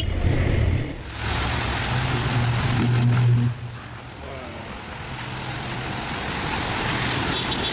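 Electrical arcing where a truck touches a live high-voltage power line: a loud crackling hiss over a low electrical hum. The hum cuts out about three and a half seconds in, and the hiss then builds slowly again.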